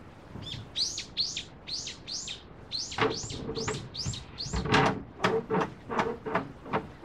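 A small bird outside repeats a short, high, falling chirp about three times a second, a dozen or so in a row. From about three seconds in, a quick, uneven run of light clacking knocks comes in alongside and then takes over.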